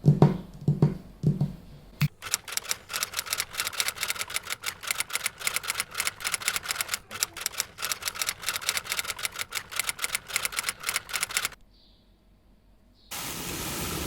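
A few low thumps, then rapid typewriter keys clacking, several strikes a second, for about nine seconds. The clacking stops suddenly, and after a short quiet gap steady rain starts near the end.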